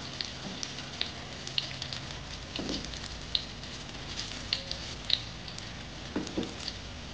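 Battered tape goreng (fried fermented cassava) frying in hot oil in a wok: a steady sizzle with scattered sharp pops and crackles of spitting oil. Two duller soft knocks come about a third of the way in and near the end.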